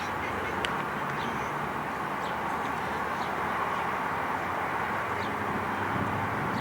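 Steady outdoor background noise, an even mid-pitched hiss, with a few faint clicks.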